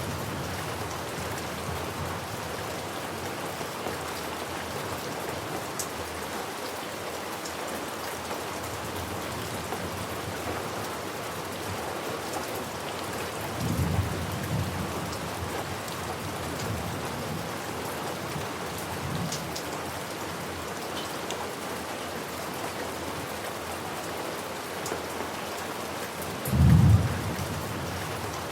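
Steady heavy rain falling, with a low thunder rumble about halfway through and a louder, short one near the end.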